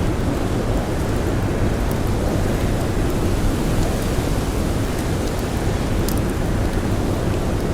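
Storm wind blowing hard and steadily, heavy in the low end, with a few sharp crackles from a wood fire, the clearest about five and six seconds in.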